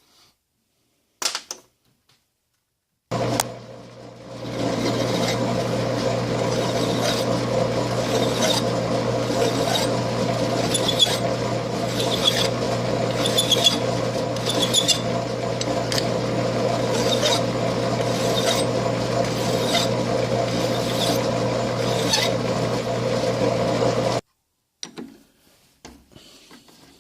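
Electric power tool running steadily and working on metal for about twenty seconds, with a constant hum and light regular ticking. It starts abruptly, grows louder about a second later as it bites, and cuts off suddenly.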